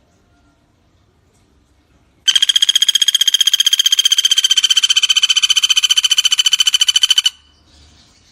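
Common flameback woodpecker (pelatuk bawang) giving one long, rapid, even rattling call of about five seconds. It starts a couple of seconds in and cuts off abruptly.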